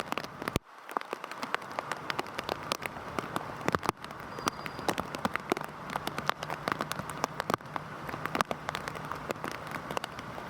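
Heavy rain falling, a steady hiss dotted with many separate drop hits close by. The sound cuts out for a moment about half a second in.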